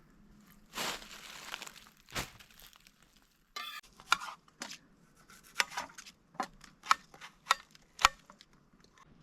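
Cooking utensils handled against cookware: a brief rustle and a single thump, then a series of irregular sharp clinks and taps.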